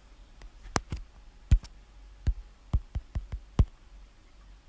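A series of about ten sharp clicks at uneven intervals, some close together in pairs, over a low background.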